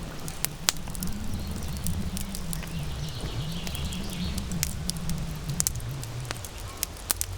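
Campfire crackling, with scattered sharp pops over a low, steady rumble.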